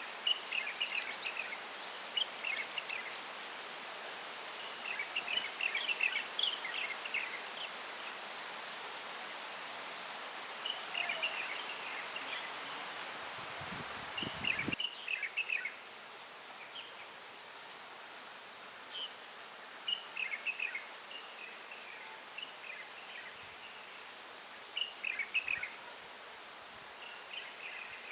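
Bird chirping in short clusters of quick notes, repeating every few seconds, over a steady hiss of wind and rustling leaves. Briefly, about halfway, there is a low rumble, and then the background hiss drops.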